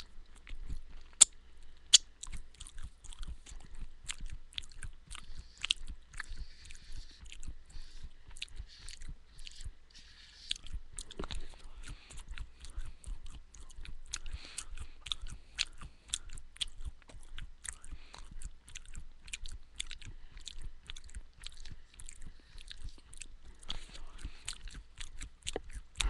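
Close-miked chewing of crunchy homemade granola made of oats, almonds and sunflower seeds: a continuous run of crisp crunches, with two sharper, louder clicks in the first couple of seconds.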